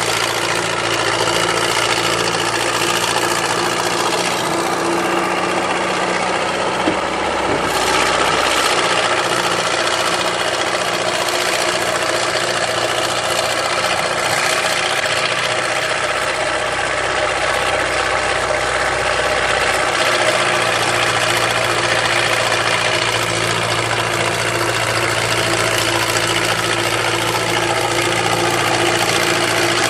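Backhoe engine running steadily, its lowest rumble rising and falling a few times.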